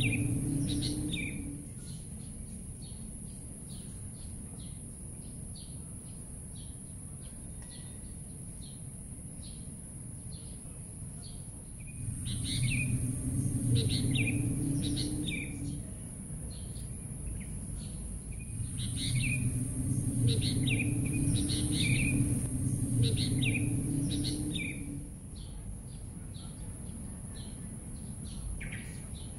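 Small birds chirping and calling repeatedly over a steady high hiss, with a low rumble that swells and fades three times.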